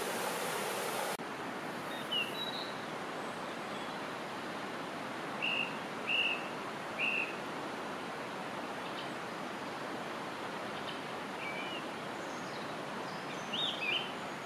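A stream running, cut off abruptly about a second in, then a steady background hiss with short, high bird chirps scattered through: three in a row near the middle and a quick pair near the end.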